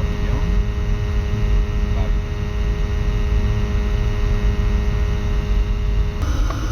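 Diesel boiler's oil burner running steadily: a low rumble with a steady hum over it. The sound shifts abruptly near the end.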